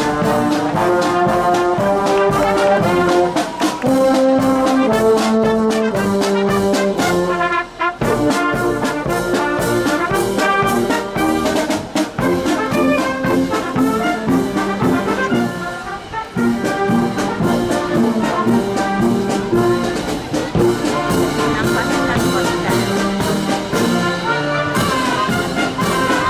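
Marching brass band playing a tune in the street, trumpets and trombones carrying the melody over a steady drum beat.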